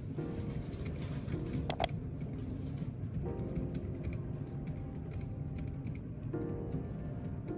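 Typing on a computer keyboard: a continuous, irregular run of key clicks, over background music with held chords.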